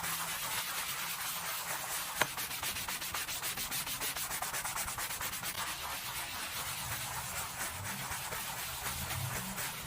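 Fast, even back-and-forth scrubbing strokes rubbing over a surface, with a single sharp click about two seconds in.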